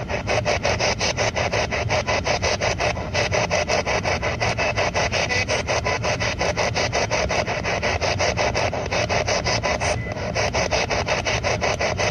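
Spirit box sweeping through AM radio stations: a steady run of rasping static bursts, about five a second.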